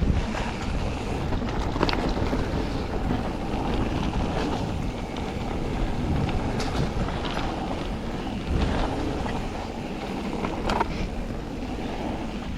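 Mountain bike riding a wet trail: a steady rush of tyre noise and wind on the microphone, with a few sharp knocks and rattles from the bike.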